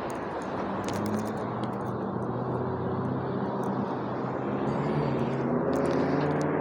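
A motor vehicle's engine running with a steady rumble, getting louder over the last couple of seconds.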